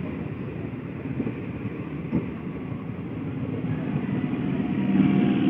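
Electric multiple-unit local train running past, a steady rumble of wheels on rail with one short knock about two seconds in, growing louder near the end.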